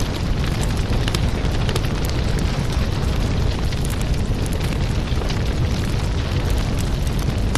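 Burning firewood crackling: irregular sharp pops and snaps, several a second, over a steady low rumble of the flames.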